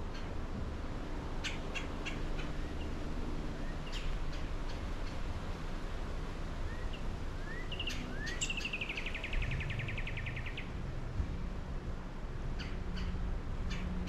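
Small birds calling: scattered sharp chirps and a few short rising whistles, then, about eight seconds in, a rapid buzzy trill lasting about two seconds, over a steady low rumble.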